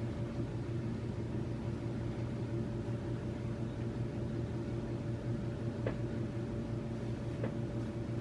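Steady low hum from a machine or appliance, with two faint clicks near the end.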